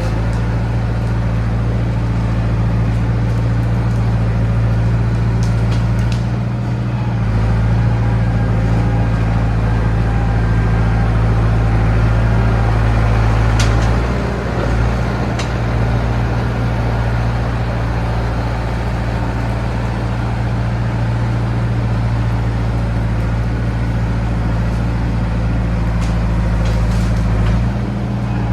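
John Deere 450B crawler bulldozer's diesel engine running steadily under working load, its low note sagging briefly three times as the load changes. A couple of sharp clicks sound near the middle.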